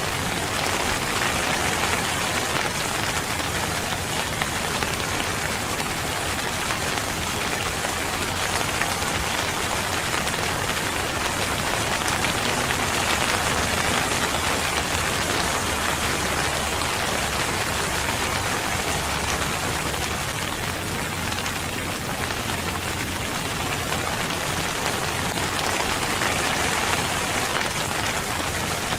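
Steady rain falling on a surface, an even hiss of drops.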